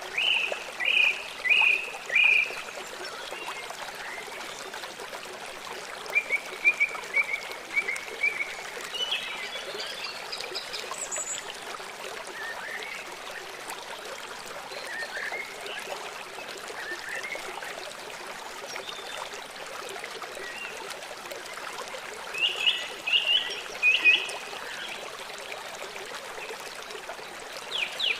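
Small songbirds chirping in short clusters of quick notes, with gaps of several seconds between them, over the steady trickle of running water.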